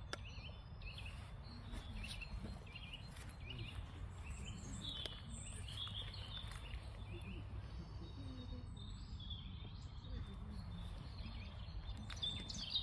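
Small birds chirping and calling, many short chirps scattered through, over a steady low rumble.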